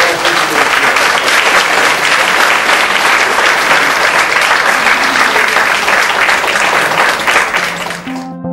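Audience applauding: dense, loud clapping that cuts off abruptly near the end, where music begins.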